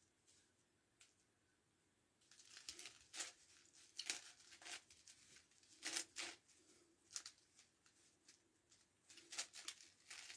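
Faint, irregular clicks and clacks of a 9x9x9 Rubik's Cube's layers being turned by hand, starting about two seconds in.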